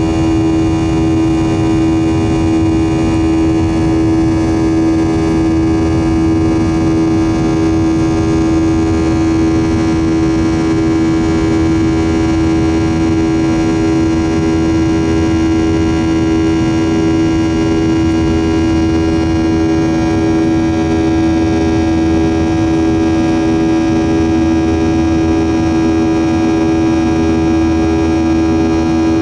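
Boeing 737-700's CFM56-7B turbofan engines running at high climb power, heard inside the cabin. A loud, steady drone with a strong humming tone over a low rushing noise.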